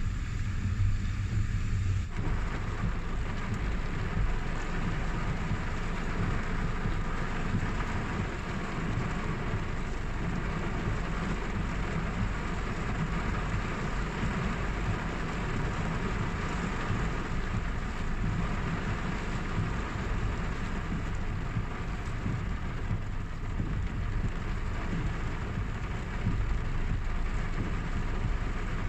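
Steady rain falling, a continuous hiss over a deep low rumble; the hiss fills out about two seconds in and then holds steady.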